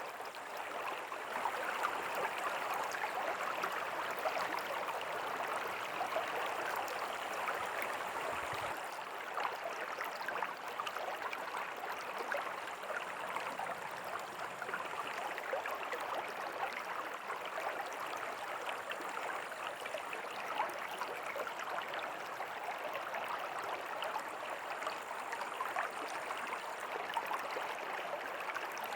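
A river flowing steadily: a continuous, even rush of running water.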